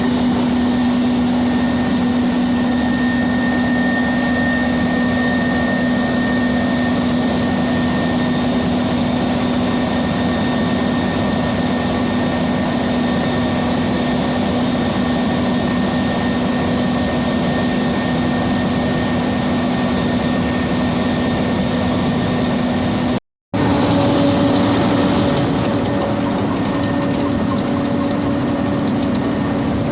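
Combine harvester running while harvesting wheat, heard from inside its closed cab: a steady drone with a constant low hum. Near the 23-second mark it drops out briefly and comes back with the hum slightly higher in pitch.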